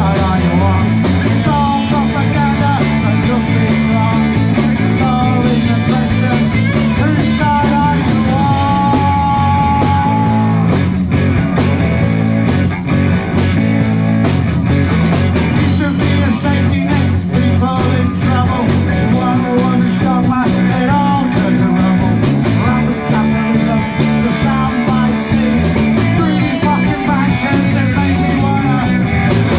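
Live rock band playing loud and steady: drums, bass and electric guitar, with a higher melody line that bends and holds one long note about nine seconds in.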